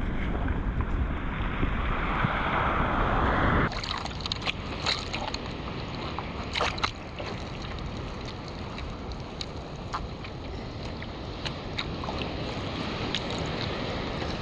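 Ocean water and wind rushing over the microphone of a camera out in the surf. About three and a half seconds in it cuts to a quieter wash of water with many small splashes and drips.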